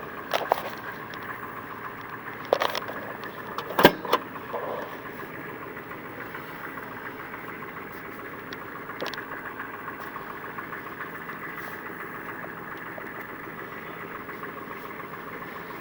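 1993 Chevy 6.5 L turbo diesel V8 running steadily after a cold start, with a few sharp clicks and knocks in the first few seconds.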